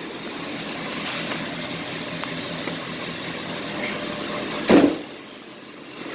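Pickup truck engine idling steadily, just started after an oil change. A brief, loud thump about four and a half seconds in.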